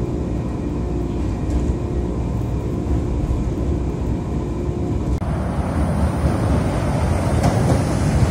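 CTA elevated train car in motion, heard from inside: a low rumble with steady motor whine tones. About five seconds in it cuts abruptly to a rougher, louder rush of train noise beside a station platform.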